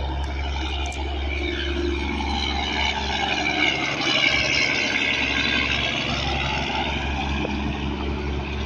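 Road traffic going by: vehicle engine and tyre noise over a steady low rumble, swelling as a vehicle passes about four to five seconds in, then easing.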